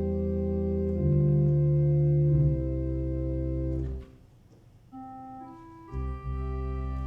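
Organ playing slow, sustained chords. About four seconds in the sound thins to near quiet and then to a single held note, before full chords with a deep bass come back in about six seconds in.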